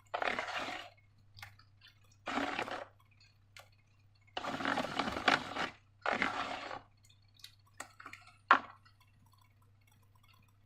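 Thick liquid slime pouring and splashing into a container in four short bursts, with sharp clicks and clinks between them, the loudest about two-thirds of the way through. A faint low hum runs underneath.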